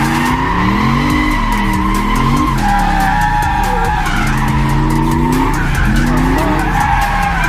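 Turbocharged LS V8 of a drift car revving up and falling back several times in quick succession, with the tyres squealing through the slides.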